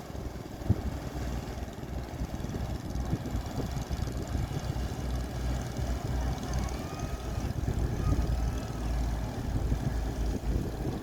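Low, steady rumble of a ferry's engine and propeller, with uneven wind buffeting on the microphone.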